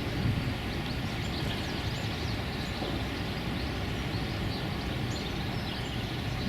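Steady low rumble of wind on the microphone, with faint, short bird chirps scattered through it.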